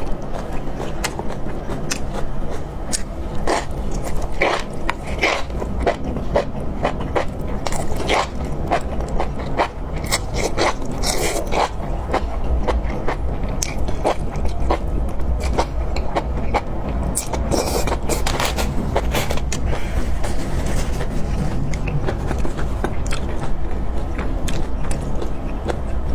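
Close-miked eating: biting and chewing with many irregular sharp clicks, smacks and crunchy crackles.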